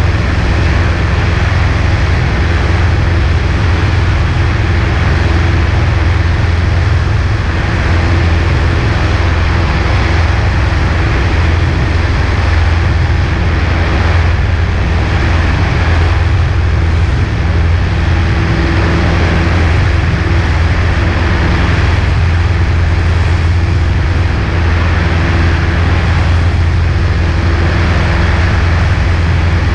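Cessna 140A's four-cylinder air-cooled engine and propeller running at a steady power setting in flight, a loud, even drone with rushing air noise, heard from inside the cockpit.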